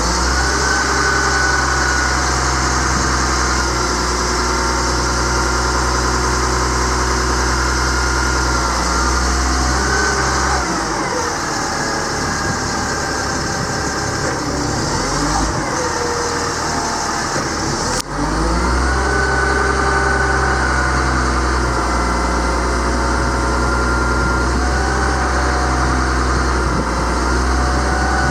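Caterpillar C7 inline-six turbo diesel running in a bucket truck, with a steady whine above the engine note. The deep engine hum drops away about ten seconds in and comes back strongly right after a sharp click near eighteen seconds.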